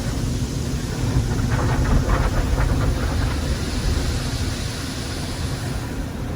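Automatic tunnel car wash heard from inside the car: a steady low rumble of the wash machinery under an even hiss of water spray on the body.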